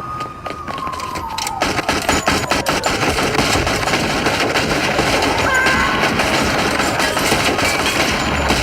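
Rapid gunfire, shot after shot in quick succession, with a police siren wailing up and down beneath it.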